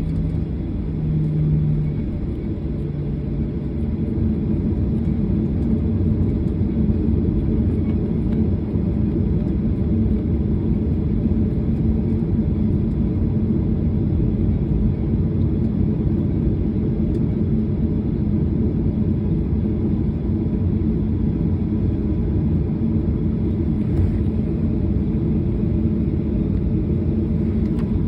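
Airliner cabin noise: a steady low rumble of the engines and airflow heard from a passenger seat, growing a little louder about four seconds in.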